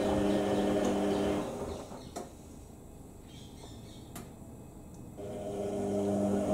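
IKEA RENLIG IWM60 washing machine's drum motor turning the wash with a steady hum, stopping about a second and a half in, then starting up again about five seconds in: the drum pausing and reversing direction in the wash action. Two faint clicks fall in the pause.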